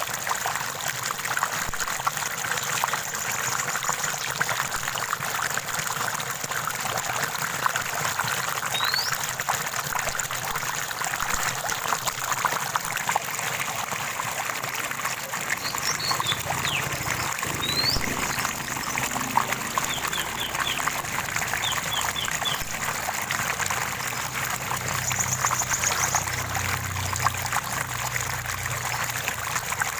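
Running water trickling and splashing steadily over a stream bed, with a few brief bird calls over it: single rising chirps, then short quick runs of three or four notes in the second half.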